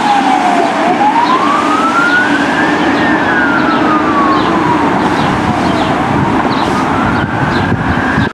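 Fire engine siren in a slow wail, the tone sliding down and up about once every five seconds over the steady hum of the truck and traffic; the sound cuts off abruptly at the end.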